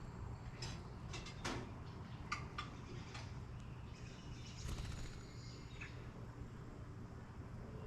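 Birds at a feeder calling: a scatter of short, sharp chip notes in the first three seconds or so, then a few brief high notes around the middle.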